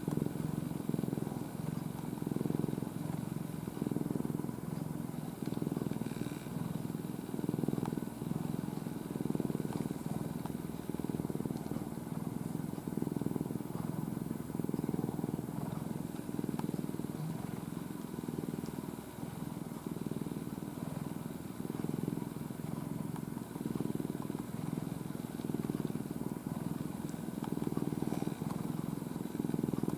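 Brown-and-white domestic cat purring hard and steadily, the low rumble swelling and fading with each breath about every second and a half.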